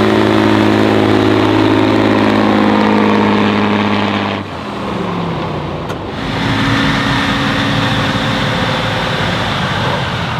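Off-road trial truck's engine running hard at high, steady revs, then easing off suddenly about four and a half seconds in with a falling pitch, and picking up again a couple of seconds later.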